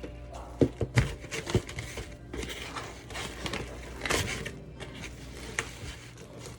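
Kitchen handling noise as thin raw steaks are arranged in a pan: a few sharp knocks in the first second and a half, then irregular rustling and crinkling.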